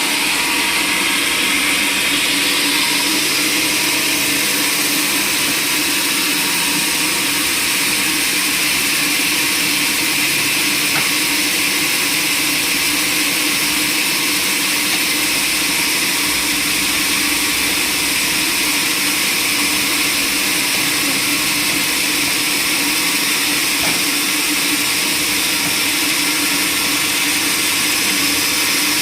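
Sawmill saw running steadily, a constant machine drone with a high whine that does not change over the whole stretch.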